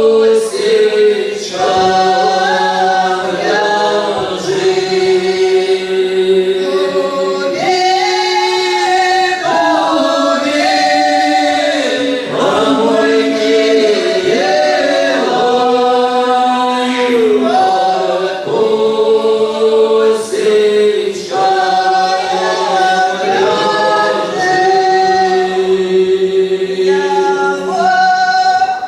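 Village folk ensemble singing a folk song together in several voice parts, with long held notes moving in harmony.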